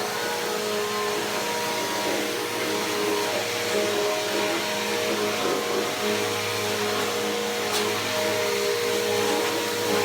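Bissell PowerForce Helix Turbo upright vacuum cleaner running steadily, its motor giving an even hum with a rush of air.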